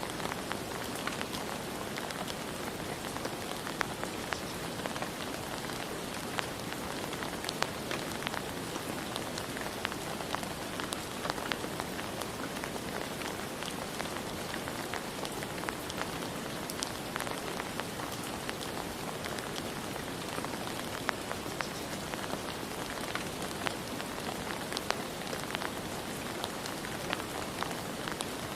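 Steady rain falling, a dense even hiss with many scattered sharp drop ticks on a hard surface.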